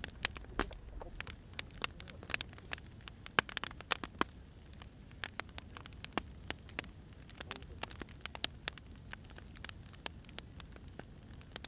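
Wood fire burning, with irregular sharp crackles and pops of the logs over a low steady rumble.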